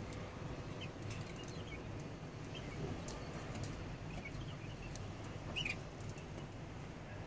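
Birds chirping in short, scattered calls, one louder chirp a little after five seconds in, over a steady low background rumble.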